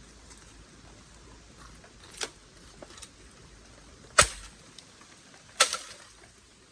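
Three sharp knocks, the second the loudest.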